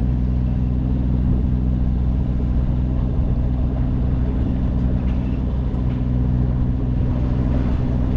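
Sailing yacht's engine running steadily under way, a constant low hum with even harmonics and no change in speed.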